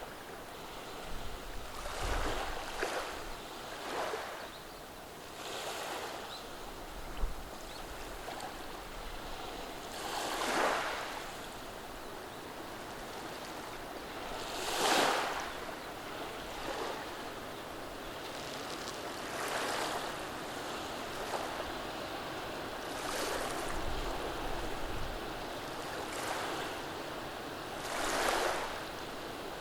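Gentle sea waves washing over a beach of round cobblestones: a steady hiss of water among the stones, swelling into a soft surge every few seconds, with three larger surges.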